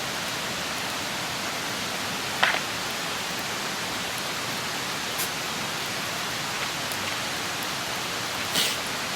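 Wood campfire burning with a steady hiss and a few sharp crackles and pops, the loudest about two and a half seconds in and another near the end.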